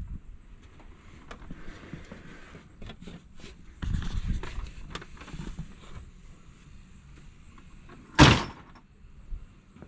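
Swing-out tool cases under truck-bed tool boxes being handled, with scattered small knocks and rattles and one loud thunk about eight seconds in.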